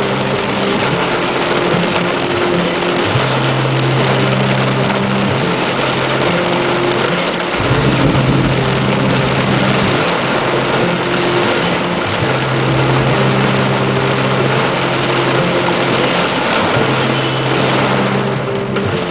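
Heavy downpour of rain, a dense steady hiss, under low held tones that change pitch every few seconds. A brief low rumble comes about eight seconds in.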